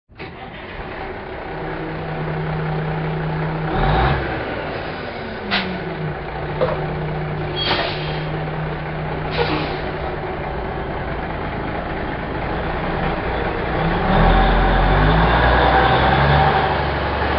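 Truck engine running steadily, heard from the cab, with four short sharp clunks or hisses spread through the first half. The engine's low rumble grows louder from about two-thirds of the way in.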